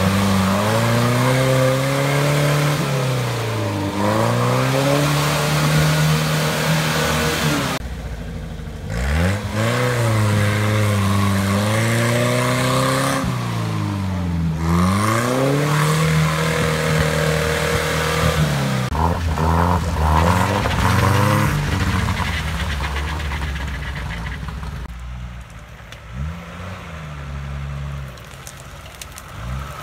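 UAZ-469 off-roader's engine revving hard and dropping back over and over, roughly every five seconds, as it churns through deep mud and water. Near the end a quieter engine takes over, rising and falling.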